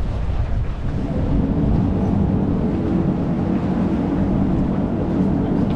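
Boat engine running with a low rumble, growing louder about a second in as a steady engine hum comes up.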